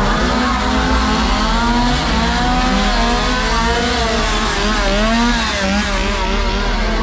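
Several chainsaws revving at once, their engine pitch rising and falling and overlapping without a break.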